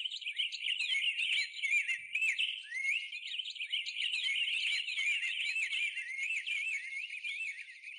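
Birdsong: a fast, continuous run of high chirping and warbling notes that fades out near the end.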